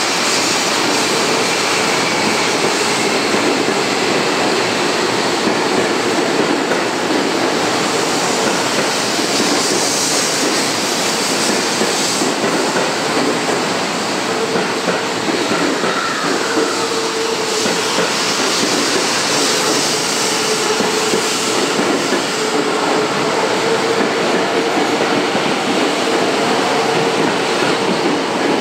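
Seibu 40000-series electric train running past along the platform: steady rail and running noise with wheel clatter, and a motor hum that comes and goes.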